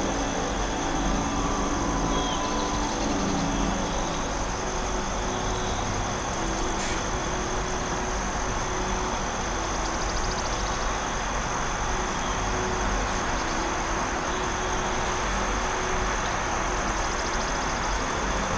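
Forest ambience: a steady, even rushing noise with a low rumble beneath it and a thin, constant high tone above.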